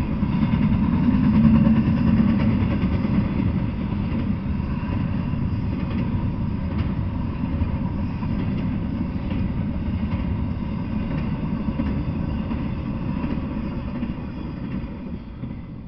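Double-stack intermodal freight train rolling past: a steady rumble of wheels on the rails with light clicking, fading away near the end as the last car goes by.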